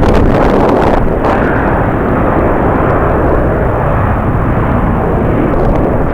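Steady, loud jet airliner engine noise. Strong wind gusts buffet the microphone with brief crackles in the first second or so.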